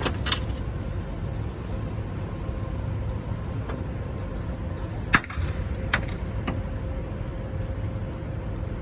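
Semi-truck diesel engine idling with a steady low rumble, and a sharp click about five seconds in.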